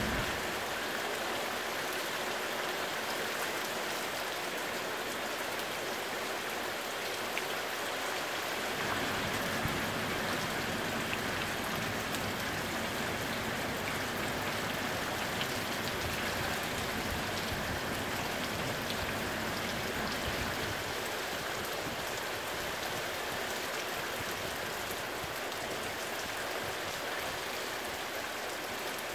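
Steady rain falling, an even hiss throughout, with a low rumble added through roughly the middle of the stretch.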